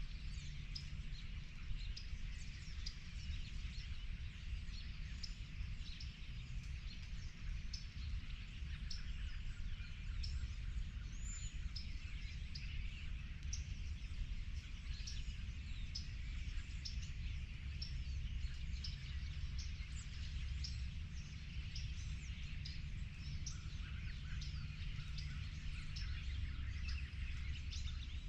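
Several birds chirping and calling, many short high notes overlapping, over a steady low rumble.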